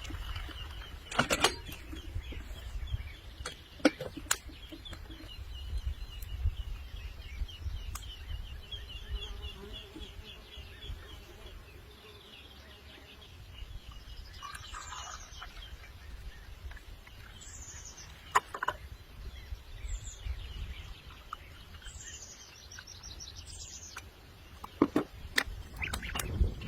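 Birds calling: a long rapid trill over the first half, then several short high chirps that fall in pitch, with a few sharp clicks and a low rumble underneath.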